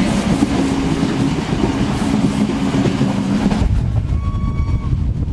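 Train sounds: at first a loud noisy rush with a steady low tone, then, about two thirds of the way through, the rumble and wind noise of riding on a moving passenger train, with a brief thin whine.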